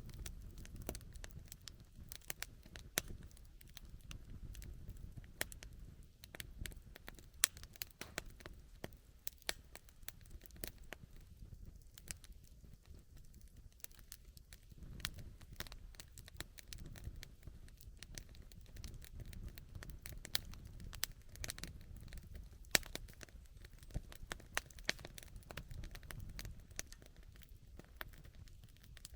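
Wood campfire burning, with frequent irregular crackles and pops of varying loudness over a low rumble.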